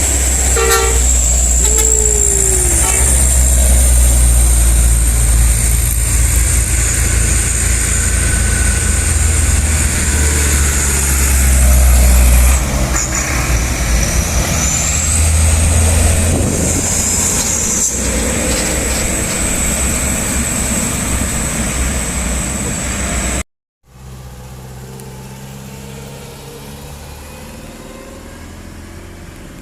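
Motor vehicle engine running with a steady low rumble and a high whine above it, the whine rising in pitch about 15 s in. The sound cuts off abruptly about 23 s in, and a quieter, steady engine-like sound follows.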